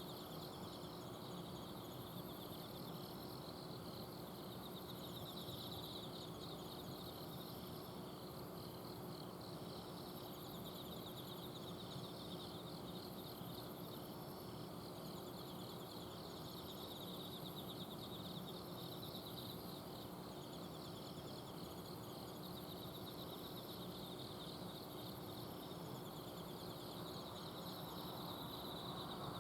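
Autumn insects chirping in several overlapping species, each repeating short pulsed trills, over the steady hum of an air conditioner's outdoor unit.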